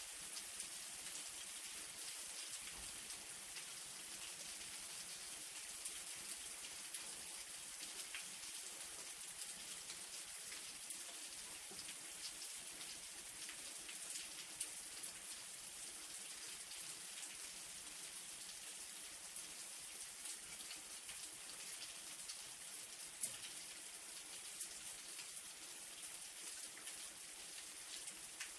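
Light rain falling steadily, with a fine pattering of individual raindrops.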